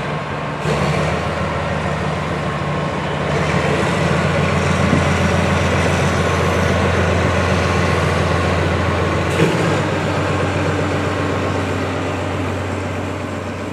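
A 760 mm narrow-gauge passenger train running, heard from a carriage window: a steady low drone under the rumble and rattle of the wheels and carriages. A sharp knock comes under a second in and another about two-thirds through, after which the drone sits slightly lower.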